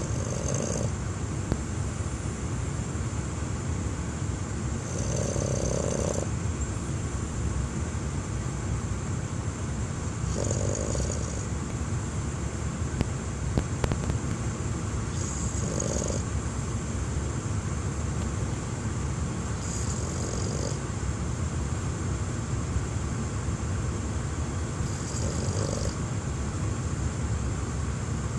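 A dog snoring, one snore about every five seconds, over the steady road rumble inside a moving car.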